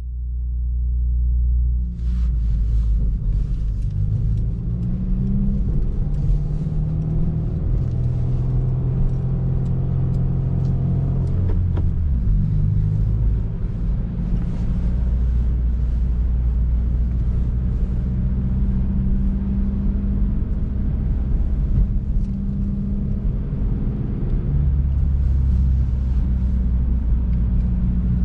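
A 2019 Subaru WRX's turbocharged flat-four engine and exhaust running under way, over a heavy low rumble and road noise. The engine note steps up and down in pitch several times.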